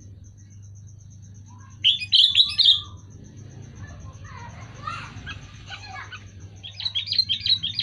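Sooty-headed bulbul (kutilang) calling in quick runs of chirpy notes. A loud run comes about two seconds in, softer notes follow, and another loud run comes near the end. A fast, even high ticking and a low hum run underneath.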